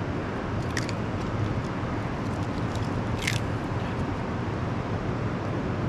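A cold river's rapids rushing steadily, with a couple of short crackles about a second in and about three seconds in.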